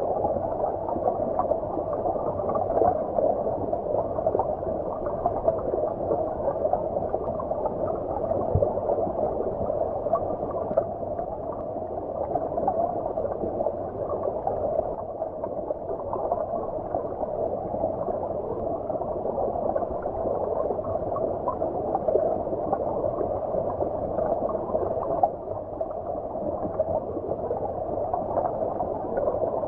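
Stream water heard from underwater: a steady, muffled gurgling and bubbling with no high sounds.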